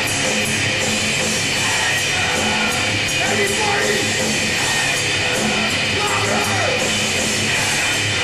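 Heavy metal band playing live and loud: distorted electric guitars, bass and drums in a full, steady wall of sound.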